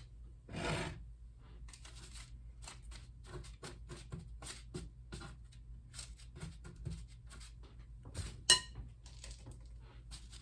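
Metal spoon scooping and pressing sticky butterscotch-coated chow mein noodles, the crisp noodles crackling and rustling in many small irregular snaps. A sharp metallic clink rings out once near the end as the spoon strikes the bowl.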